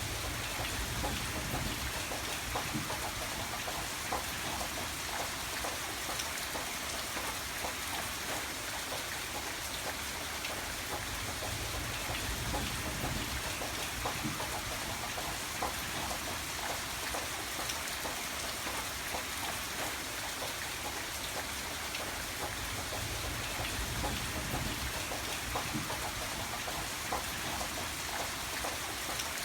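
Steady rain falling, with the patter of individual drops hitting a surface.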